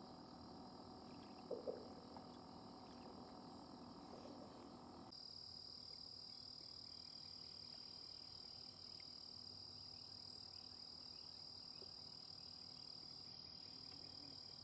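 Faint, steady high-pitched trilling of insects, with a brief soft knock about one and a half seconds in; a low background rumble drops away about a third of the way through.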